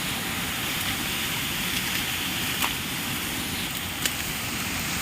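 Steady rush of running water, with a couple of faint clicks over it.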